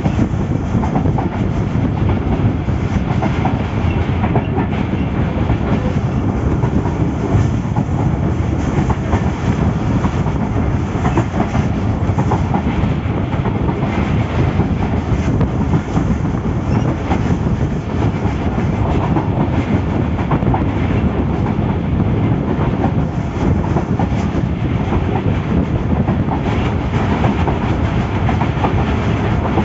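Passenger train coach running at speed, heard from inside by the window: a steady rumble with the wheels clicking over the rail joints.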